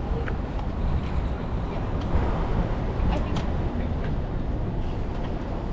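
City street ambience: a steady low rumble of traffic with faint voices of passers-by and a few light taps.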